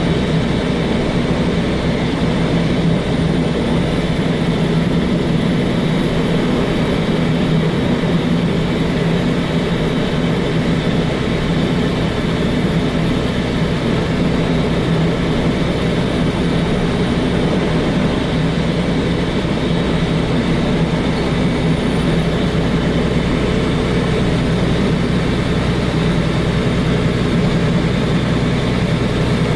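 Semi-truck's diesel engine running at a steady, unchanging speed, a constant low drone with no revving.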